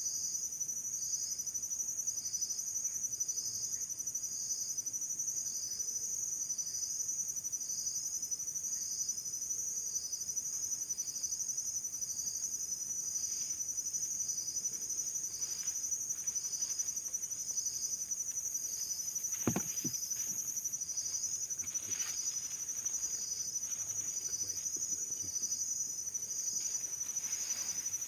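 Insects trilling steadily and high, with a separate chirp repeating about once a second. A single short knock about two-thirds of the way through.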